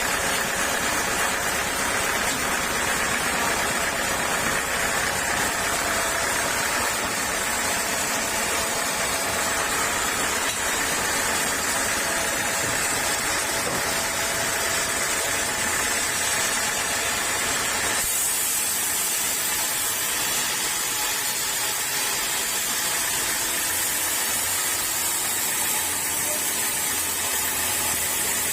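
Sawmill saw running steadily, a continuous noisy hiss with a faint hum beneath. The sound changes abruptly about 18 seconds in.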